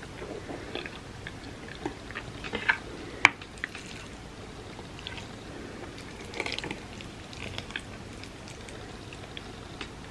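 Close-miked eating of creamy rice pudding: wet mouth sounds and chewing, with scattered soft clicks and one sharp click about three seconds in.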